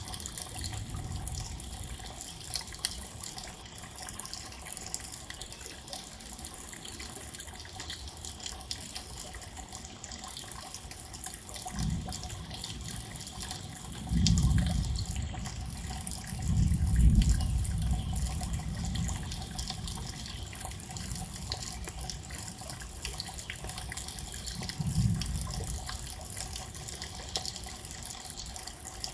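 Steady rain falling and dripping, with a few low rumbles that swell up around the middle and once more near the end.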